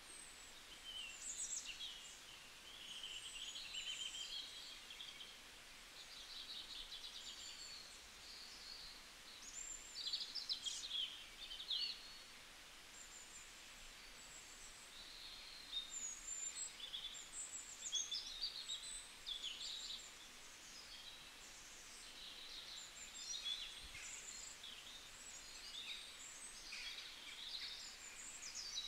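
Small birds chirping, many short high calls and quick trills overlapping without a break, over a faint steady hiss.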